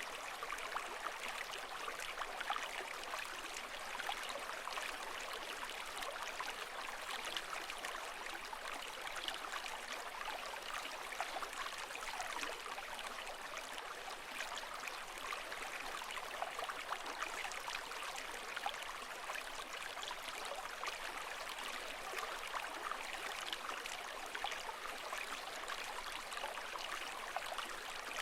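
Steady running water, full of small trickling, bubbling splashes, with no rise and fall of breaking waves.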